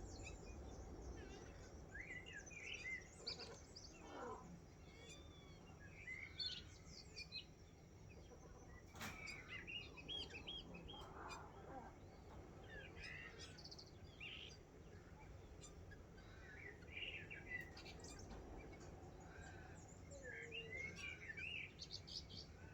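Several wild birds chirping and calling over one another, faint: a dawn chorus of short whistles, chirps and quick rising and falling notes.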